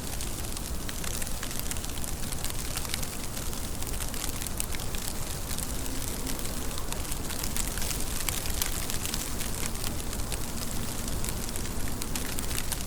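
Steady rain, with many separate drops ticking sharply against a continuous wash of rain noise.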